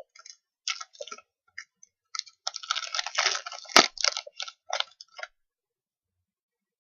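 Crinkling and rustling of trading-card packaging and plastic sleeves being handled in irregular bursts, with one sharp click about four seconds in; it stops after about five seconds.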